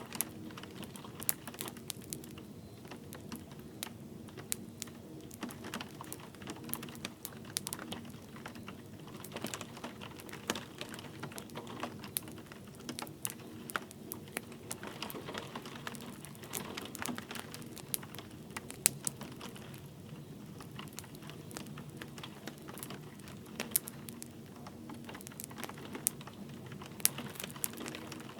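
Wood fire crackling in a fireplace: irregular sharp pops and snaps over a steady low hiss, with light rain falling.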